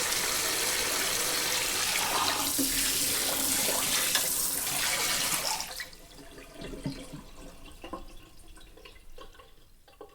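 Kitchen sink sprayer hose spraying water onto dishes, a loud steady hiss that shuts off a little over halfway through. Scattered drips and small clinks of dishes follow, fading out.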